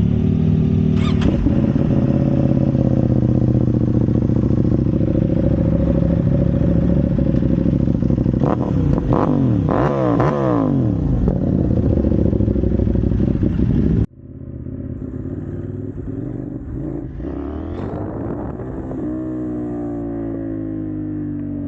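CF Moto 800NK parallel-twin motorcycle engine with its catalytic converter removed, ridden hard with revs swinging up and down through gear changes. About fourteen seconds in the sound cuts off abruptly to a quieter stretch of the same engine running, its revs rising and then settling.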